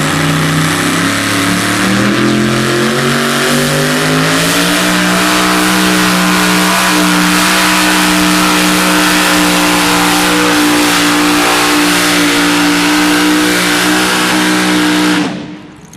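Pulling vehicle's engine at full throttle during a sled pull: the pitch rises over the first few seconds, holds steady under heavy load, then drops away suddenly near the end as the throttle comes off.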